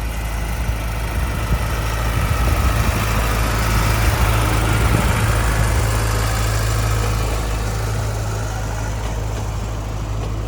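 An engine running steadily with a low hum, growing a little louder around the middle and easing off towards the end.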